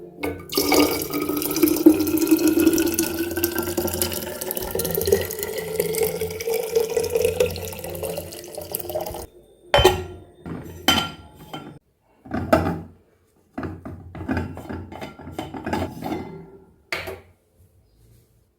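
Water running into a bottle, the pitch rising steadily as it fills for about nine seconds. Then a string of short sloshing bursts as the water is swirled and shaken inside the bottle to rinse out hard-water deposits.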